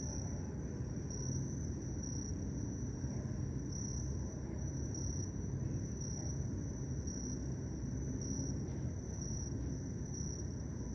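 Crickets chirping at dusk, a high-pitched trill pulsing steadily about once a second, over a low, steady background rumble.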